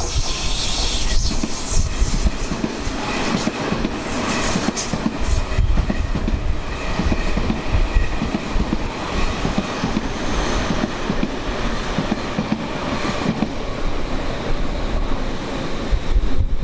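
Tobu Tojo Line electric commuter train running past, its wheels clacking over rail joints, with a faint high tone through the middle of the passage. Strong gusty wind buffets the microphone.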